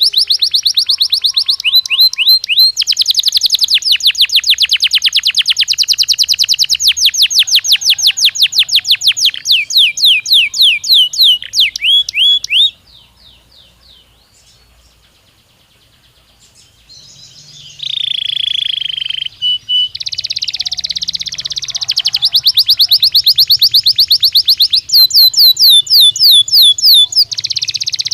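Belgian canary singing in long, rapid trills of quickly repeated high notes. Its song breaks off for a few seconds about halfway through, then starts again with a short, lower falling note before the fast trills return.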